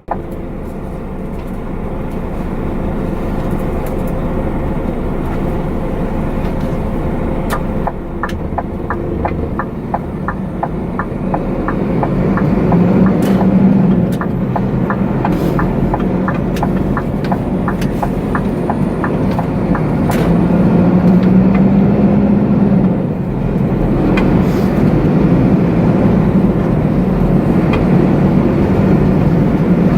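Scania truck's diesel engine running on the move, with road noise. The engine note rises and strengthens twice as it pulls. A run of evenly spaced clicks plays for several seconds about eight seconds in.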